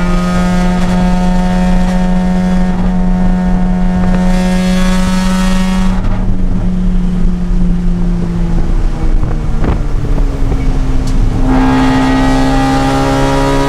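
Mazda RX-8's two-rotor rotary engine at racing speed: held steady at high revs, then lifting off about halfway through with the pitch falling for a corner. Back on the throttle near the end, the revs climbing again.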